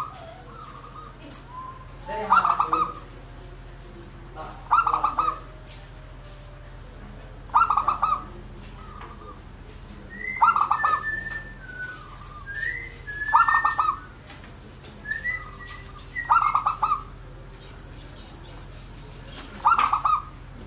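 A zebra dove (local perkutut) singing its cooing song: a burst of quick staccato coos, repeated about every three seconds. Short higher chirps come between the songs from about 10 to 15 seconds in.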